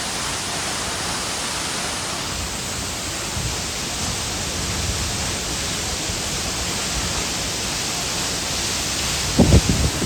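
Steady rain falling, an even hiss at a constant level. Near the end comes a brief, louder low thump or rumble.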